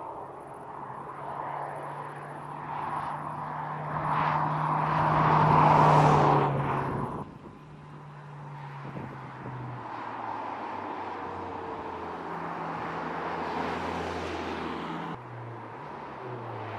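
McLaren GT's twin-turbo 4.0-litre V8 running as the car drives by, swelling to its loudest about six seconds in as it passes close. The engine sound changes abruptly twice, about seven and fifteen seconds in, to steady cruising stretches.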